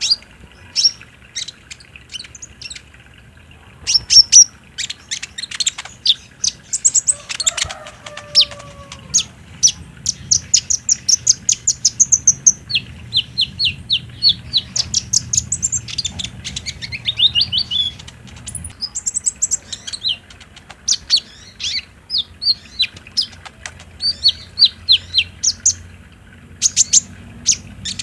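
Kolibri ninja sunbird singing: fast runs of high, sharp chirps and rapid trills, some runs stepping down in pitch, with brief pauses between bursts. A faint low hum runs underneath.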